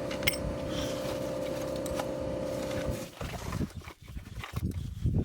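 A steady motor whine that cuts off about three seconds in, followed by irregular knocks and clatter of parts being handled.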